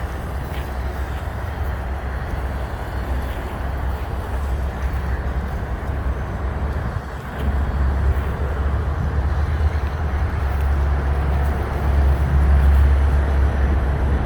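Steady low rumble of vehicle traffic, swelling louder about seven seconds in and again near the end.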